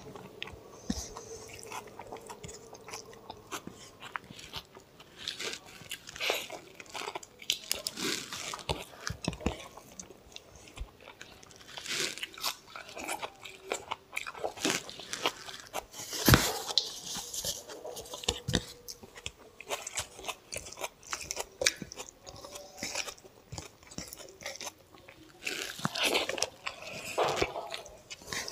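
A person chewing and biting mouthfuls of mutton curry and rice eaten by hand, close to the microphone: an irregular stream of wet mouth clicks and smacks, with a few louder ones scattered through.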